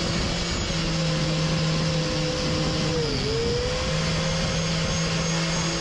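Power tool spinning a wire brush against rusty steel, a steady whirring grind. The motor's pitch dips briefly about three seconds in as it is pressed into the work.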